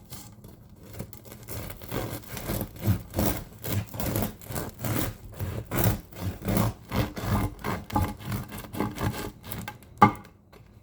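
Serrated bread knife sawing through a crusty sourdough loaf in quick back-and-forth strokes, about two a second, then one sharp knock near the end.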